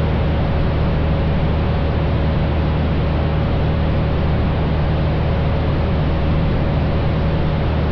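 Steady cabin drone of a 1956 Cessna 172's six-cylinder Continental O-300 engine and propeller in flight, an even low hum under a broad rushing noise.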